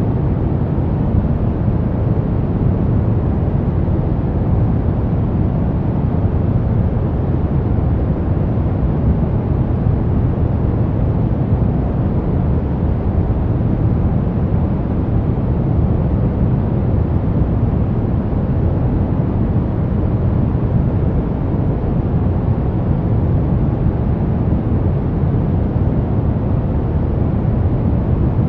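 Brown noise: a steady, unchanging deep rushing hiss, strongest in the low end and fading toward the highs, with no rhythm or events.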